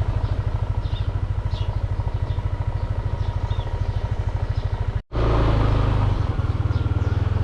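Small motorbike engine idling with a steady, rapid low putter. It drops out for an instant about five seconds in and comes back a little louder.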